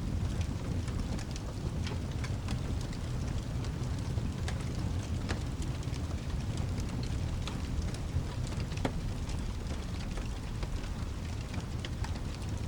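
Layered rain-and-fireplace ambience: a steady low rumble and rain hiss with scattered sharp crackles and pops of a burning wood fire.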